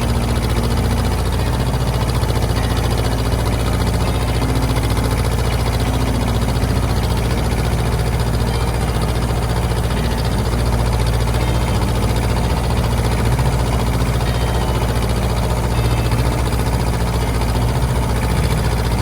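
Ford 1700 compact tractor's three-cylinder diesel engine running steadily as the loader lifts and carries a heavy saw log on clamp-on pallet forks.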